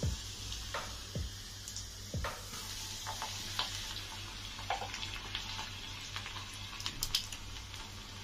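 Food frying in hot oil, a steady sizzle with scattered crackles and pops.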